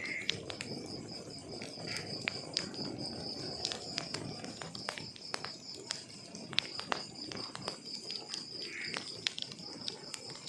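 Log fire crackling, with irregular sharp pops and snaps over a low rumble. A cricket chirps steadily in a high, rapid pulse throughout.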